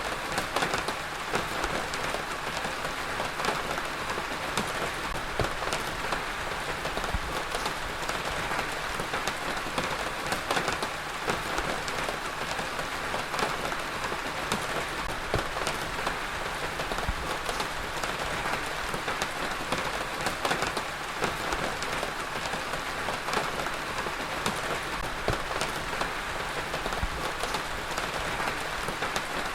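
Heavy rain falling steadily on a surface, a dense even hiss with many distinct drop impacts pattering through it.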